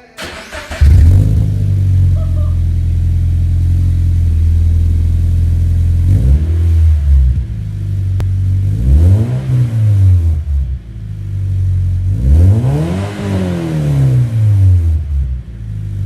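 Scion FR-S flat-four boxer engine through an Invidia N1 aftermarket exhaust, starting up about a second in and settling into a steady idle. The engine is then revved three times, each rev rising and falling back to idle; the last is the longest.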